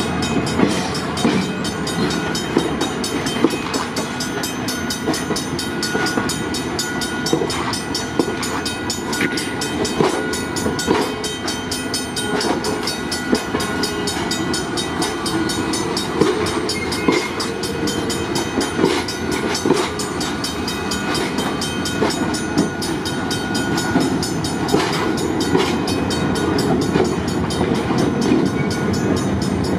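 A train rolling during switching moves: steel wheels knock and clatter over rail joints under a continuous rumble, with a few brief high-pitched squeals.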